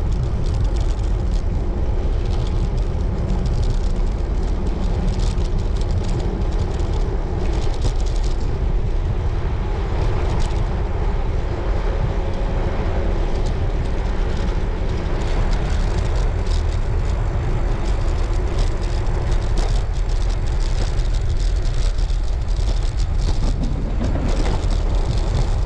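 Steady wind rush over the microphone while riding a road bicycle, with rolling tyre noise underneath.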